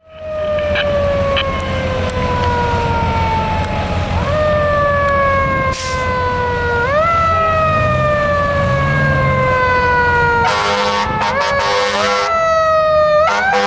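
Fire engine siren wailing: a pitch that falls slowly and is pushed back up quickly three times, over the truck's low engine drone. From about ten seconds in, a fast pulsing siren tone joins it.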